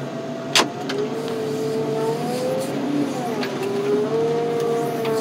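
Heavy yard machinery working under load: a wavering whine that rises and falls over a steady mechanical rumble, with one sharp metal clank about half a second in.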